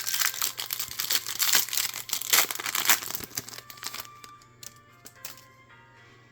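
Foil booster-pack wrapper crinkling and tearing as it is ripped open, dying down after about three and a half seconds.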